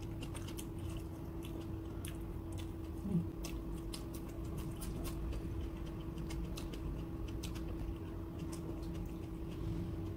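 Close-up mouth sounds of a person eating by hand: chewing and smacking lips and fingers, a dense run of small wet clicks. A faint steady hum lies under it.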